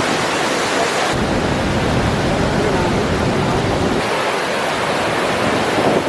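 Steady roar of a large waterfall: a dense rush of falling water. The deep rumble turns heavier suddenly about a second in and eases again about four seconds in.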